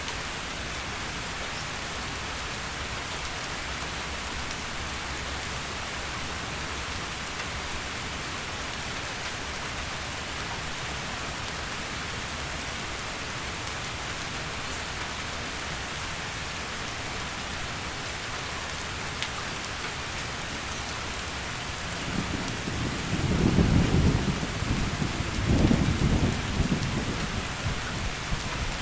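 Heavy rain falling steadily. About two thirds of the way through, a low rumble of thunder rolls in, swells twice and fades near the end.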